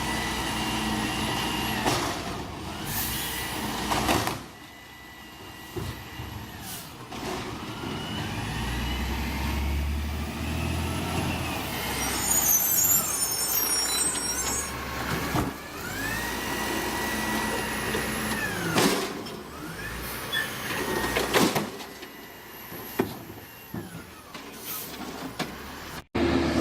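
Garbage truck at work: its engine and hydraulics rev up and down in repeated cycles, a whine that rises, holds and falls again about every eight seconds. Several sharp, sudden noises fall between the cycles.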